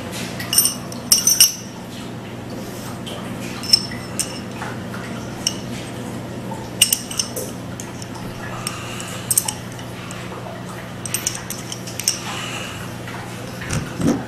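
Steel parts of a Mosin-Nagant M91/30 rifle bolt (firing pin, spring, bolt body) clinking and clicking as they are handled and fitted back together. The clicks are light, scattered and metallic with a brief ring, over a steady low hum.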